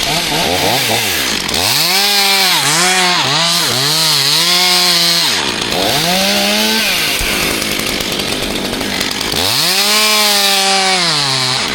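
Two-stroke chainsaw revved up to full throttle in three runs, the pitch dipping and climbing back about once a second between about two and five seconds in, again briefly near six seconds, and for a couple of seconds near the end, dropping to a rougher lower running in between.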